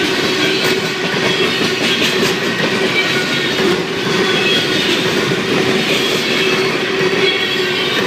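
Freight train boxcars rolling past: a steady, loud run of steel wheels on the rails.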